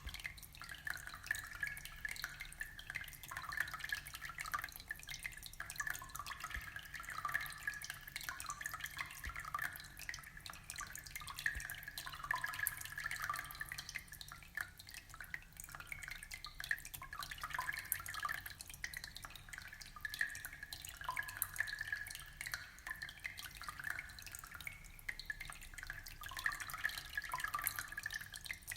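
Aquarium water trickling and dripping: a steady, dense patter of small splashes and bubbles.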